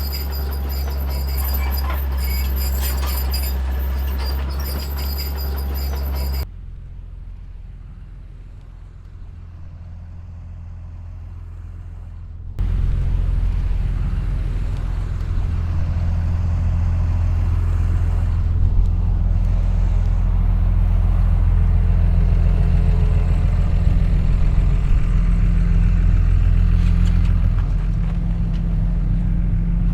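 Diesel engines of heavy earthmoving machines running steadily, with a thin high whine over them at first. The sound drops sharply after about six seconds and comes back louder about six seconds later.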